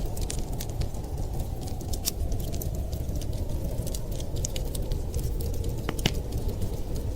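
Wood fire crackling: irregular sharp pops and snaps scattered throughout over a steady low rush.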